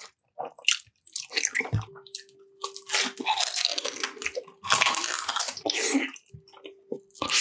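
Close-miked mukbang eating sounds: irregular crunching, biting and wet chewing of food.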